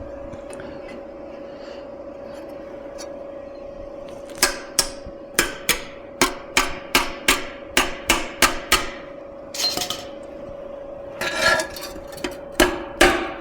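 A hammer striking sheet metal, a run of sharp blows about two or three a second starting a few seconds in, then a few more near the end. A steady hum runs underneath.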